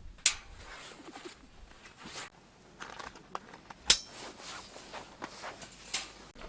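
Three sharp knocks, spaced a couple of seconds apart, the middle one the loudest, amid soft rustling and crunching of handling and steps.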